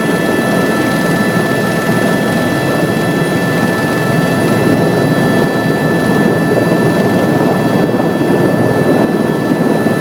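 Helicopter in steady flight: a loud, even rumble of rotor and engine noise with thin, steady high whine tones on top.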